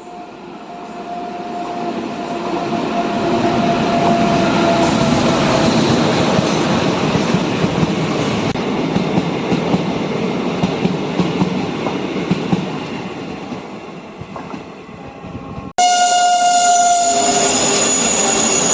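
A passenger train running through the station: its noise builds over the first few seconds, holds loud and steady, then fades. Near the end the sound cuts off abruptly to a different loud noise with a steady high tone.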